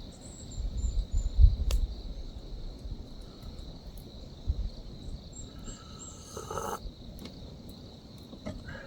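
Steady insect chirping, with low wind rumble on the microphone in the first couple of seconds and a short higher call a little after the middle.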